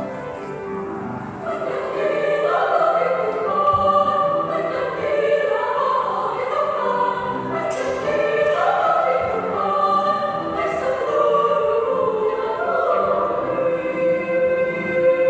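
Youth church choir singing a sacred choral piece, several voices sounding together. It swells louder about a second and a half in.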